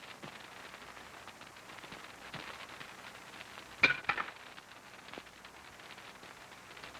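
A short clatter of two or three clinks from kitchenware, dishes or utensils knocked together, about four seconds in, over the steady hiss of an early sound-film soundtrack.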